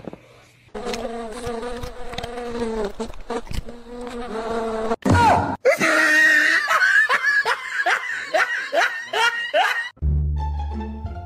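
Dogs vocalising: a small dog gives a long, drawn-out pitched growl-whine, then a puppy gives rapid high yaps, about three a second, each dropping in pitch. Near the end these give way to music with plucked low strings.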